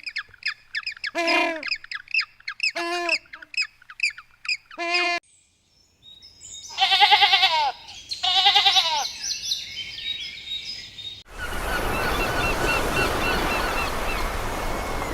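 Bird calls in three short clips. First, a string of short pitched calls with high chirps between them. After a brief silence, two loud, longer calls. Then a steady outdoor background with small repeated chirps.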